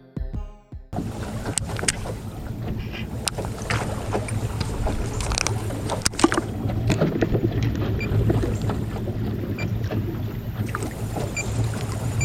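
Wind buffeting the microphone on a small fishing boat, with water slapping the hull in scattered sharp knocks over a steady low rumble. A piano music cue fades out in the first second.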